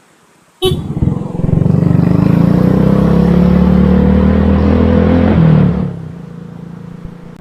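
Motorcycle engine coming in suddenly and running loud and steady at a fixed speed, then easing off to a lower, quieter running about six seconds in.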